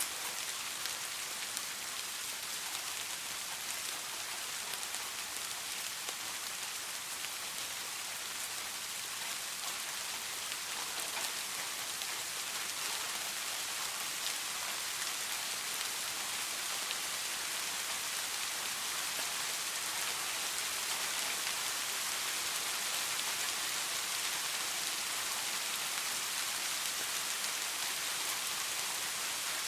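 Steady soft rain falling, an even hiss of many small drops with faint ticks of individual drops throughout.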